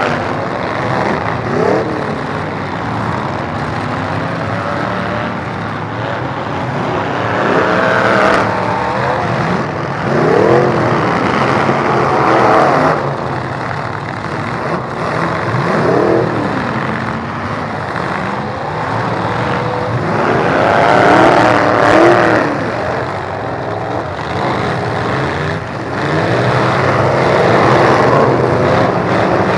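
Derby truck engines revving hard, their pitch sweeping up and falling back every few seconds over a steady din of other engines running.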